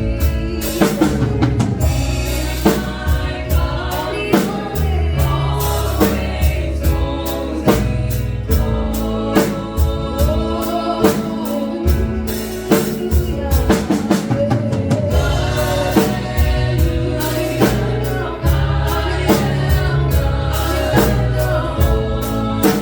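Live gospel worship music: voices singing together over a drum kit with a steady beat and a strong bass line.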